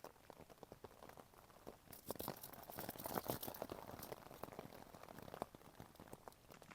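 Rain pattering on tent fabric: a dense, irregular scatter of small taps that grows heavier about two seconds in.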